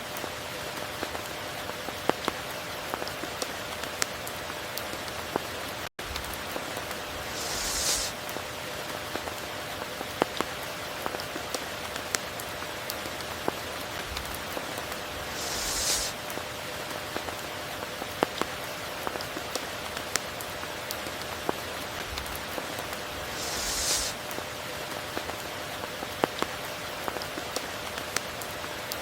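Steady rain falling, with scattered sharp drop hits. A short high hiss swells and fades about every eight seconds, three times, and the sound cuts out for an instant about six seconds in.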